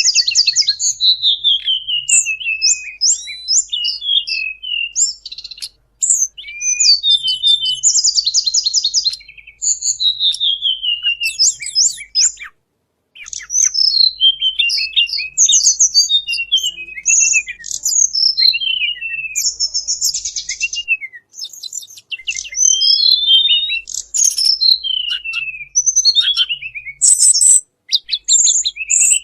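Recorded song of the tledekan bambu, played as a bird-trapping lure call. It is a continuous run of high, quick chirps and falling trills, phrase after phrase with brief pauses between.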